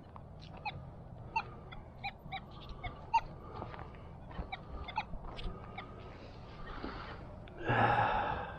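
Metal detector giving short, irregular target-tone beeps of varying pitch as it sweeps over buried metal, followed near the end by a louder burst of rustling or scraping.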